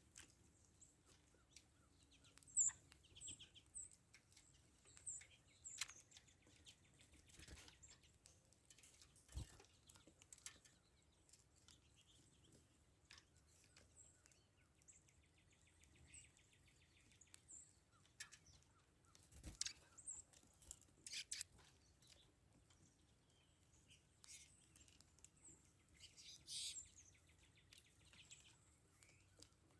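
Faint, scattered short high chirps of small songbirds, with a couple of brief buzzy trills and a few sharp knocks.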